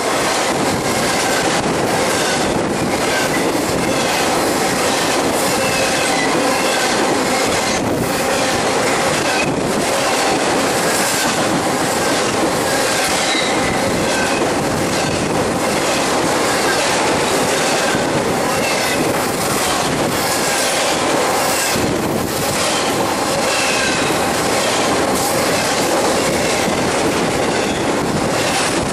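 Intermodal freight train cars loaded with containers and trailers rolling past close by. Steel wheels on rail make a steady loud rumble and rattle, with repeated clicks about every second and short, faint wheel squeals.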